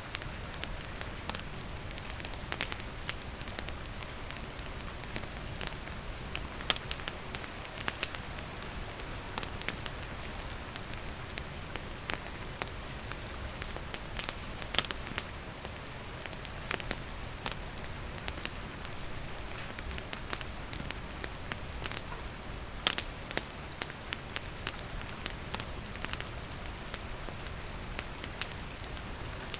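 Steady rain falling, with a wood campfire crackling through it in frequent irregular sharp pops.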